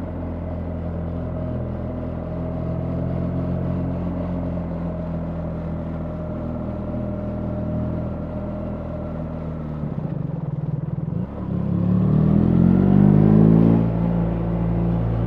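BMW R 1300 GS boxer-twin engine running steadily under way. About ten seconds in the throttle briefly closes, then the engine accelerates with its pitch rising, and near the end a gear change drops the pitch before it settles to steady running again.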